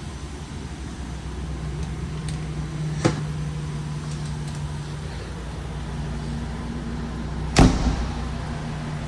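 Ambulance door slammed shut near the end, a single heavy bang, with a sharp click about three seconds in. A steady low hum from the running ambulance underlies it.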